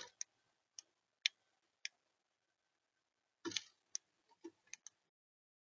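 Sharp, irregular clicks and taps of a bird at a feeder, with two louder knocks among them; they stop abruptly after about five seconds.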